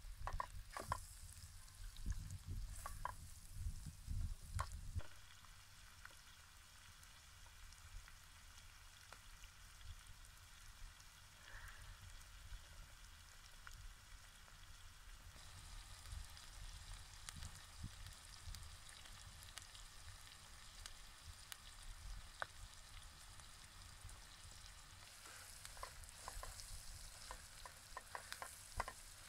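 Spatula stirring diced potatoes frying in a metal pot over a campfire, scraping and knocking against the pot in the first few seconds and again near the end, with steady sizzling between.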